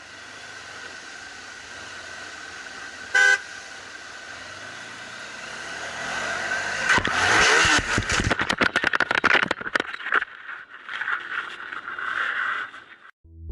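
Road and engine noise from a dashcam, with a short car-horn toot about three seconds in. From about seven seconds a louder, rough stretch of rapid knocks and noise lasts several seconds, then cuts off.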